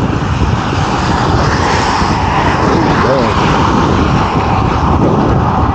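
Wind buffeting the microphone and wet-road noise from a bicycle ride in the rain, with a motor vehicle going by; its hiss swells about two seconds in.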